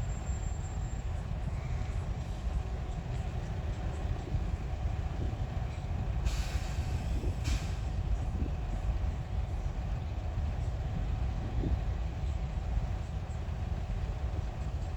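A train running past with a steady low rumble, and a hiss lasting about a second and a half roughly halfway through.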